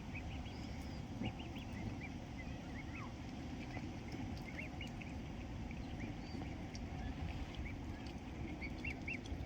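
Birds calling: many short, high chirps or peeps scattered throughout, over a steady low background rumble.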